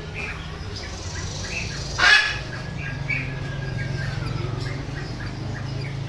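Caged birds chirping over and over, with one loud harsh squawk about two seconds in, followed by a long thin whistle that slowly drops in pitch, over a steady low hum.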